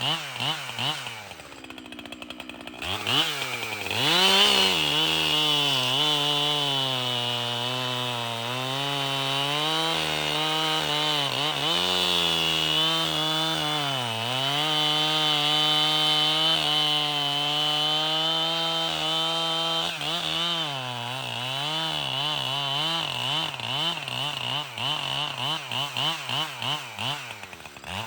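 Two-stroke Echo chainsaw cutting firewood rounds at full throttle. Near the start it falls back and then revs up again about three seconds in. Its pitch sags under load a couple of times mid-cut, and over the last several seconds it turns uneven, with quick rises and falls in speed.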